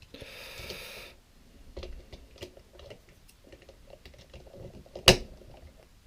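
Small plastic toy parts being handled and pressed back together: a short hiss at the start, light scattered clicks, then one loud sharp click about five seconds in as a part snaps on.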